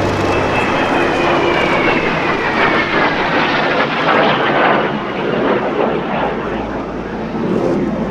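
Fixed-wing aircraft flying past, a loud engine rush with a high whine that slides steadily down in pitch over the first five seconds.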